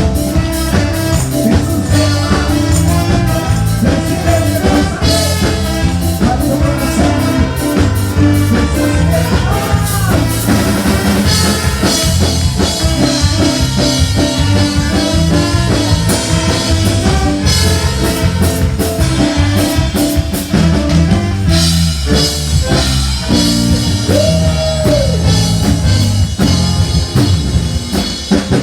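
A live band playing worship music, with a drum kit keeping a steady beat under bass and other instruments.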